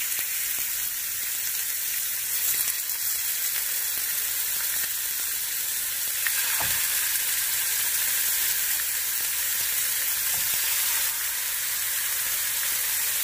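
Marinated monkfish pieces sizzling in hot olive oil in a nonstick frying pan, a steady hiss as more pieces are laid in, with a soft knock about halfway through.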